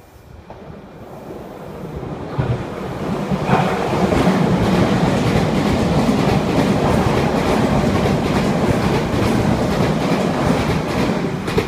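Meitetsu electric train approaching and passing through a station without stopping, its wheels clattering over the rail joints. It builds up over the first few seconds, stays loud while the cars go by, and drops off suddenly near the end as the last car clears.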